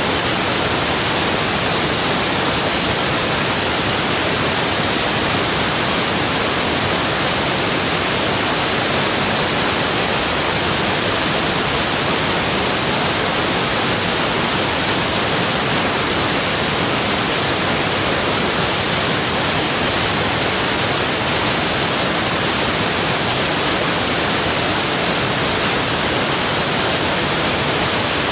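Rushing water, a steady, even hiss that does not change.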